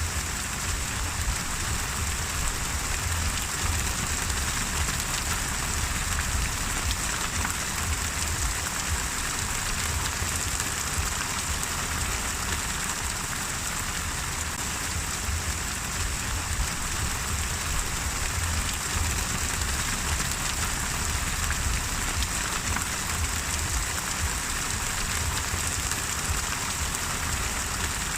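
Steady rain falling on a surface, an even hiss of many drops without pause or change.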